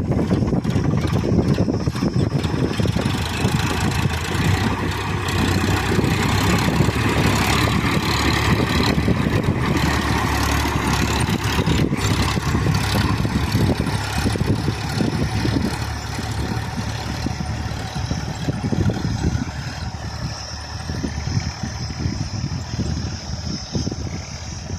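Sonalika DI-740 III tractor's three-cylinder diesel engine running steadily under load while puddling with a two-bottom mould-board plough, a little quieter over the last third.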